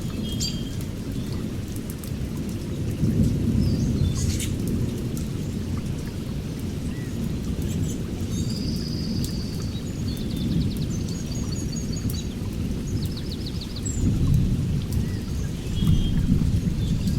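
A steady low rumble of rain and distant thunder, with small songbirds chirping and giving short rapid trills above it, mostly in the middle of the stretch.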